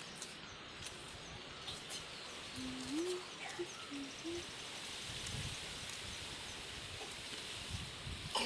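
Faint outdoor background noise with a short, low-pitched call of a few notes about three seconds in, and some soft low thuds later on.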